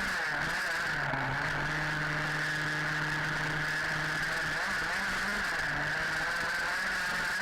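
HPI Baja 5B's small two-stroke petrol engine running at steady high revs, with a few brief dips in pitch as the throttle eases, over a constant drivetrain whine.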